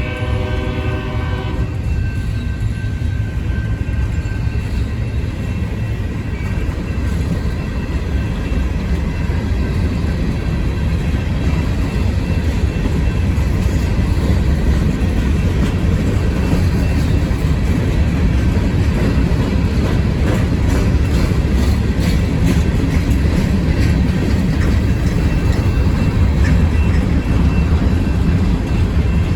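Freight train passing close by: the locomotive horn sounds and cuts off about two seconds in, then a steady low rumble of wheels rolling on rails, with scattered clicks.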